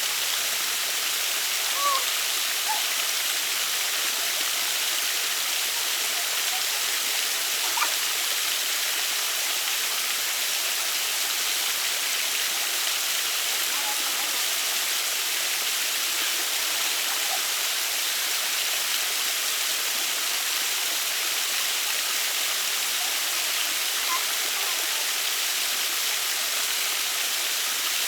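Waterfall: a steady, even hiss of falling water, with a few faint brief sounds over it.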